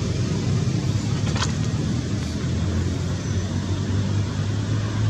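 An engine running steadily with a low hum, with a brief faint high sound about a second and a half in.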